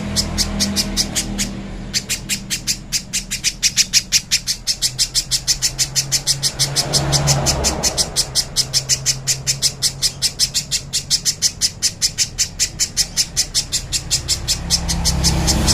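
Little spiderhunter singing: a long, even series of short, high, sharp notes, about six a second, with a brief break near the start, over a low background rumble.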